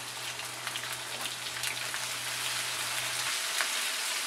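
A spice tempering of cumin, mustard seed, garlic, ginger, asafoetida and chopped green chillies sizzling and crackling in hot oil in a kadhai while a wooden spatula stirs it: a steady hiss with scattered small pops.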